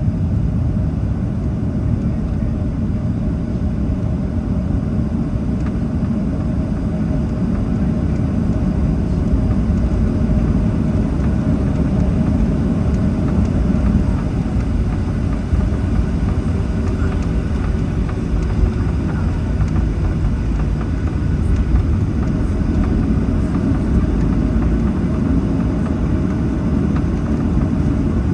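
Steady jet engine noise and low rumble heard inside the cabin of a Boeing 737-800 on the runway at takeoff, its CFM56-7B turbofans running.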